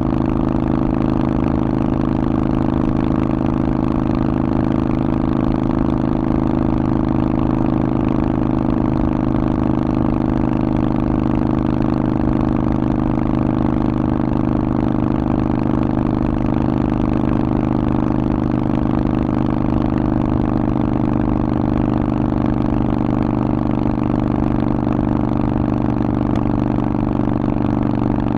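Harley-Davidson Forty-Eight's air-cooled V-twin running through a Vance & Hines aftermarket exhaust, holding a steady engine speed with no revving.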